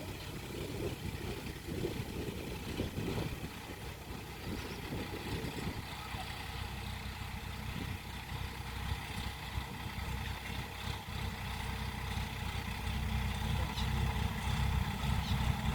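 Sonalika tractor's diesel engine running steadily, a low rumble that grows louder toward the end.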